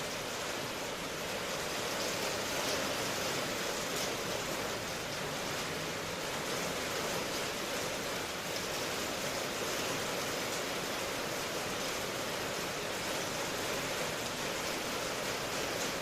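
Steady rain falling, an even hiss with no thunder in it.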